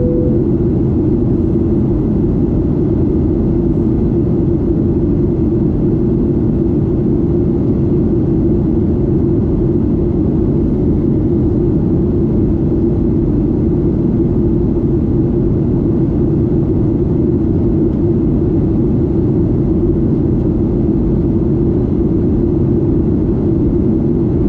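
Steady, loud jet engine noise of a Boeing 737-8's CFM LEAP-1B turbofan, heard from a cabin seat near the engine, with a deep, even rumble.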